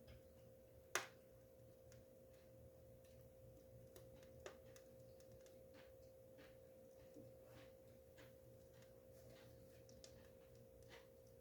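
Wood fire in a fireplace crackling faintly with scattered small pops and one sharp pop about a second in, over a faint steady hum.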